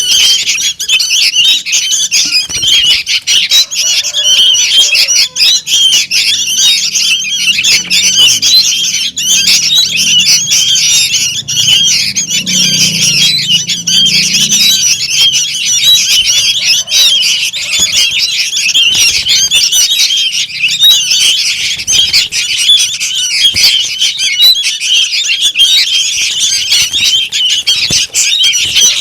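Young sooty-headed bulbuls calling noisily: a dense, unbroken chorus of many overlapping high, harsh begging squawks.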